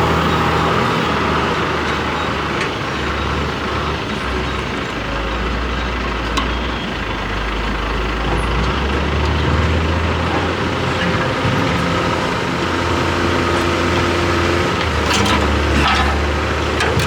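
A large engine running steadily at idle, a continuous low drone, with a few short clicks of tools near the end.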